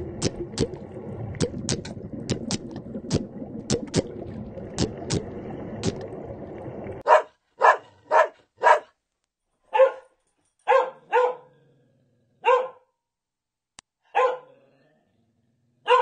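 A steady hiss with scattered sharp clicks, then a small puppy giving about nine short, high yips, one every half second to a second and a half.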